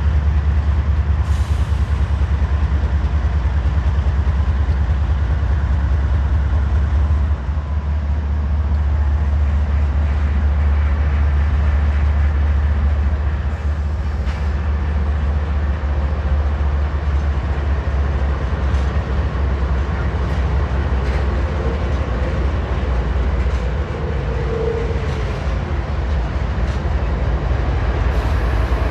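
A train rolling past: a loud, steady low rumble of cars on the rails, with a few faint clicks from the wheels.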